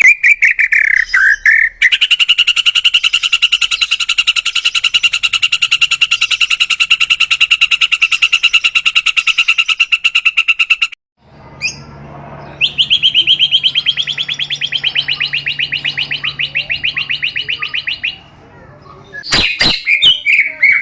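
Songbird singing: a short varied phrase, then a long, fast trill held on one steady pitch for about nine seconds, a brief pause, and a second fast, slightly higher trill for about five seconds over a low hum. Varied song starts again near the end.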